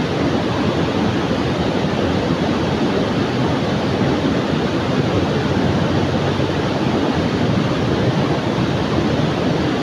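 Fast-flowing river water rushing steadily, a loud even sound of a strong current swollen by rain upstream.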